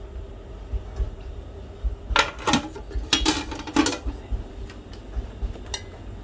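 Kitchen dishes and utensils clinking and clattering: a cluster of sharp knocks about two to four seconds in, and one more near the end.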